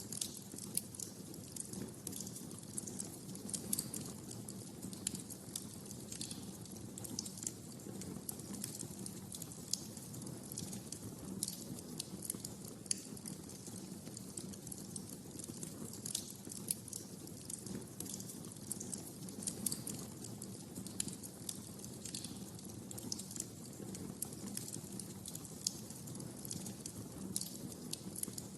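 Wood fire crackling in a fireplace: frequent short sharp pops and snaps over a steady low rush of the flames.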